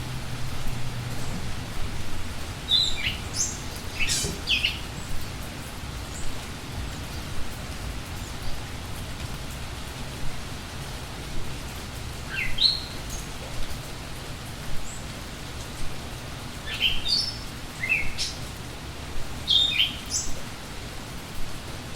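Steady rain with songbirds chirping over it in short clusters of quick, high, falling notes, three times.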